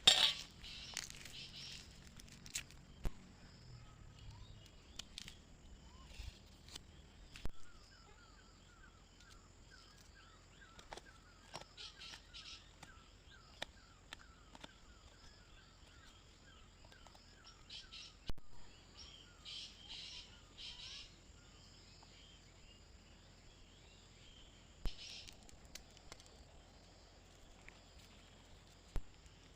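Forest ambience with birds chirping on and off and a long run of quick repeated call notes in the middle. A sharp knock opens it, and a few scattered clicks follow.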